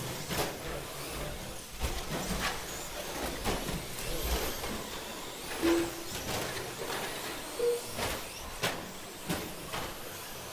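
Electric short-course RC trucks with 13.5-turn brushless motors racing: high motor whines rising and falling with throttle, mixed with repeated sharp knocks and clatters from the trucks on the track.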